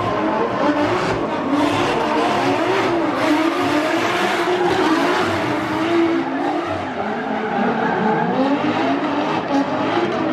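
Drift cars running hard on track: engines revving, with the pitch rising and falling throughout, over the screech of sliding tyres.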